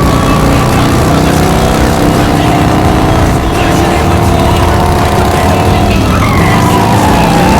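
Loud racing car engines running hard, with the engine pitch sliding down and then back up about six seconds in.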